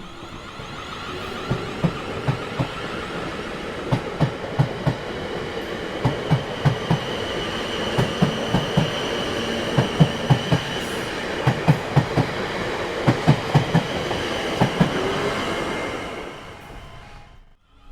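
Train passing, its wheels clacking over rail joints in quick groups of two to four over a steady rumble. The sound builds at the start and fades out near the end.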